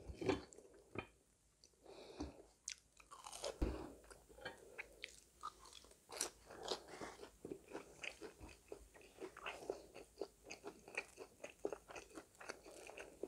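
Crunching bites and chewing of a fried, breaded cheese stick close to the microphone: many small crisp crackles, with a brief lull about a second in.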